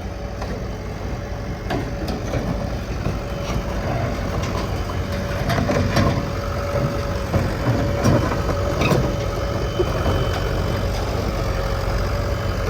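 Bulldozer's diesel engine running steadily with a thin whine, as the dozer is unloaded from a haul trailer, with scattered metallic knocks and clanks.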